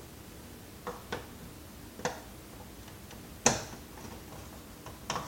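Irregular sharp clicks and taps of hand tools and hard plastic parts while a Dirt Devil upright vacuum cleaner is being taken apart, about six in all, the loudest a little past halfway.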